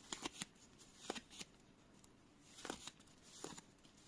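Faint rustling and light ticks of paper postcards being handled and shuffled, in a few short scattered bursts.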